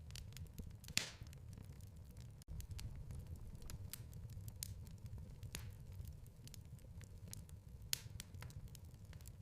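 Fireplace fire crackling, with a steady low rumble and a scatter of sharp pops. The loudest pops come about a second in and near the end, and the sound breaks off for an instant about two and a half seconds in.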